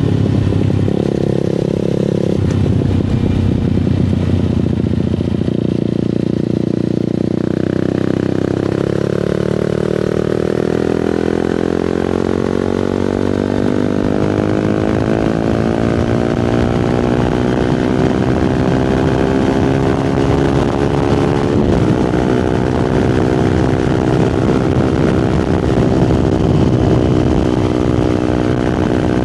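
Fantic Caballero 125 scrambler's single-cylinder engine and exhaust under way. The engine note wavers for the first several seconds, then climbs steadily in pitch as the bike accelerates, with a short break in the climb about two-thirds of the way through.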